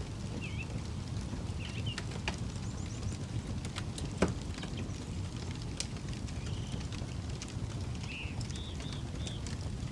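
Campfire crackling with scattered pops, one sharp loud pop about four seconds in, over a steady low rumble. Birds chirp several times in short calls, most in the second half.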